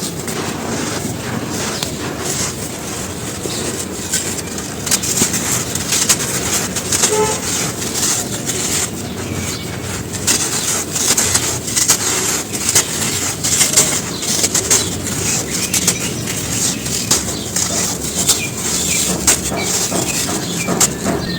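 Dry charcoal ash crumbling and crushing: a dense, continuous run of crackles and crunches, busier and louder from about five seconds in.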